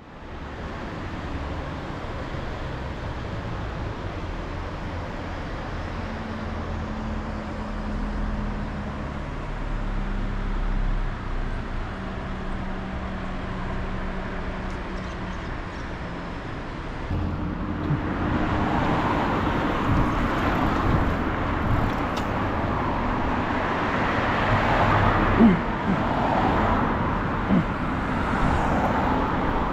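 Mercedes-Benz car driving: steady engine and road noise with a low hum that shifts in pitch. About seventeen seconds in the road noise grows louder and fuller, with a few short knocks.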